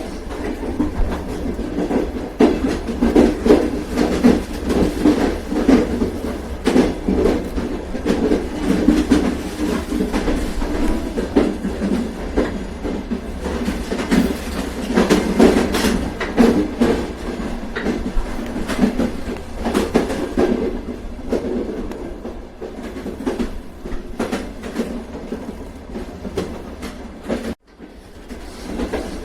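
Train running on rails: a steady rumble with an irregular clickety-clack of the wheels over the track. The sound drops out briefly near the end, then picks up again.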